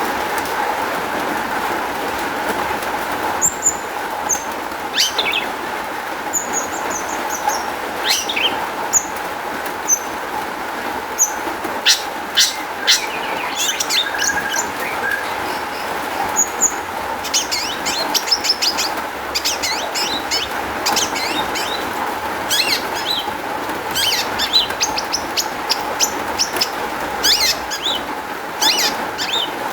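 Long-tailed shrike (cendet) singing a varied song of short, sharp high chirps and mimicked calls, sparse at first and much busier in the second half, over a steady background drone.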